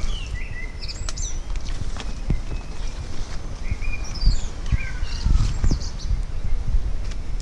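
Small birds chirping and whistling in short phrases, several notes sliding down in pitch, over a steady low rumble.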